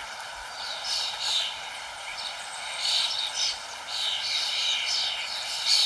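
Birds chirping in quick repeated bursts of high calls, several overlapping at times, over a steady background rush.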